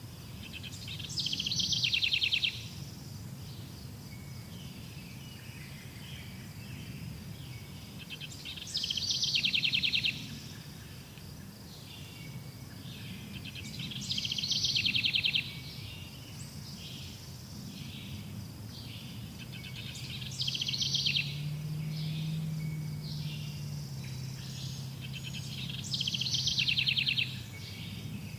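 Outdoor nature ambience: a rapid trilling call repeats five times, about every six seconds, each trill lasting a second or so, over a steady low rumble.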